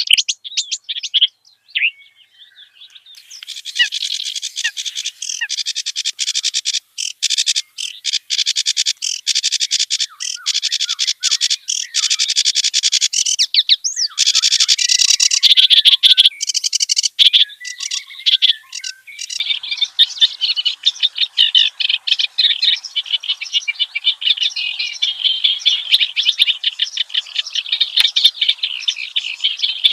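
Kerak basi (reed warbler) singing a fast, varied, chattering song of rapid repeated notes. The recording changes abruptly twice, after a short lull about two seconds in and again about twenty seconds in.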